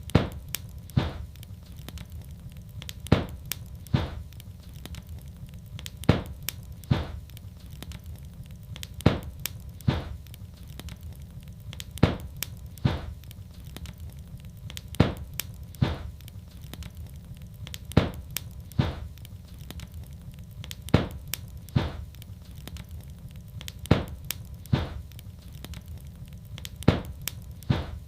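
Wood fire burning in a fireplace, crackling with sharp pops over a low rumble. A loud pop comes about every three seconds with smaller crackles between, in an evenly repeating pattern.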